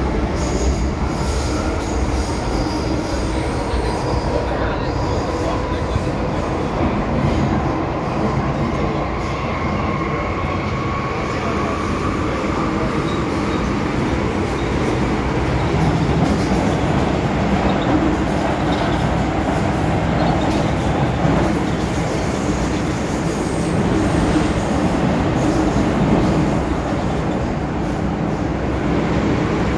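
MTR M-Train electric multiple unit running along the line: a steady rumble of wheels on rail, with a faint whine that rises slightly about a third of the way in.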